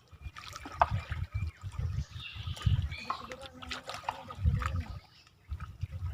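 Water trickling and lapping at the shoreline, with irregular low rumbling gusts on the microphone and scattered small clicks.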